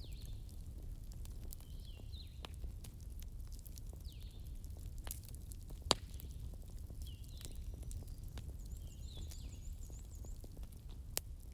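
Fireplace ambience: a low steady rumble of burning wood with scattered crackles and pops, the loudest pop about six seconds in. Faint high chirps recur every second or two.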